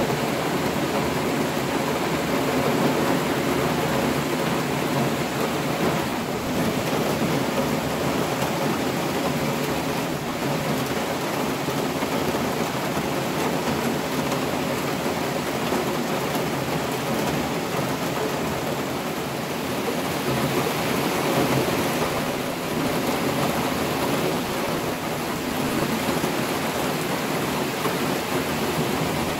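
Heavy rain falling during a thunderstorm: a steady, even hiss that swells slightly now and then.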